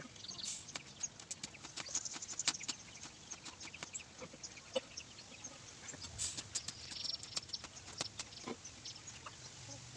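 Farmyard birds calling in the background, with short high chirps a few times, over many faint scattered clicks.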